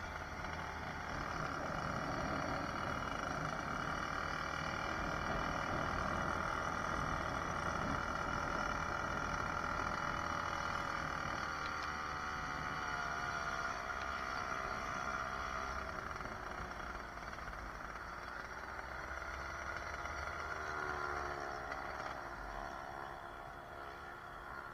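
Two-stroke 66cc motorized-bicycle engine running under way. The note holds steady for about half the time, then falls and rises again in pitch as the throttle changes.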